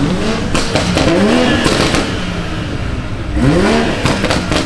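Car engine revved in two quick blips, pitch rising and falling each time, with sharp exhaust crackles and pops as the revs drop.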